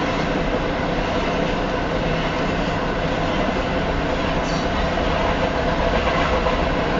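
Double-stack container cars of a long Union Pacific freight train passing close at about 47 mph: the steady, loud sound of steel wheels running on the rails.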